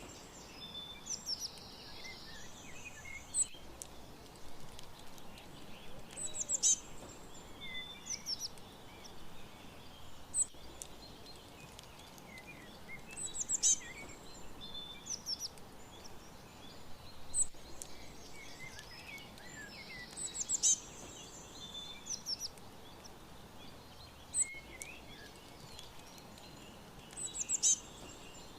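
Small songbirds chirping and trilling in high, quick notes over a faint steady hiss. A loud run of rapid chirps comes back about every seven seconds, so the recording loops.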